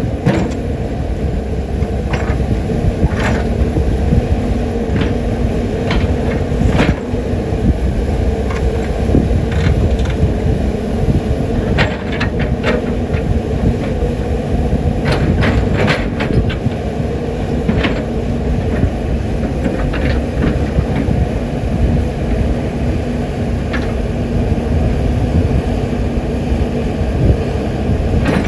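CAT 320D excavator's C6.4 six-cylinder diesel engine and hydraulics running steadily under work, with a held low hum. Scattered sharp clanks and knocks, some in quick clusters, come from the bucket striking and moving stones.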